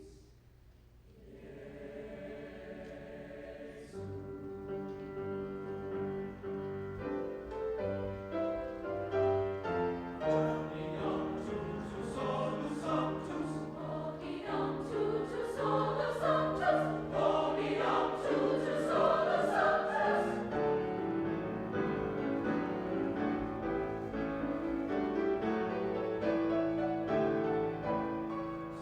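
High school choir singing a held, slow-moving piece. It comes back in after a brief lull near the start and swells loudest in the middle.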